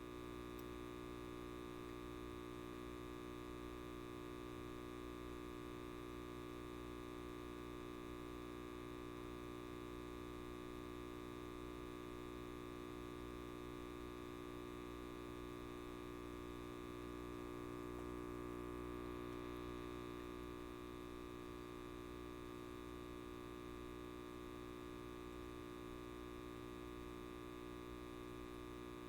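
Steady electrical hum and buzz of a light bulb, a stack of unchanging tones that swells slightly about two-thirds of the way through.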